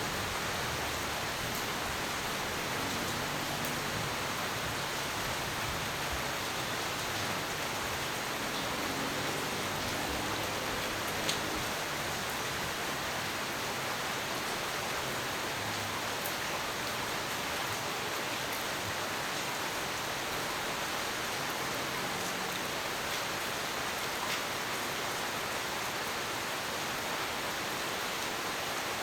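Steady rain falling, an even hiss with a few single sharp drop ticks, and a faint low rumble in roughly the first ten seconds.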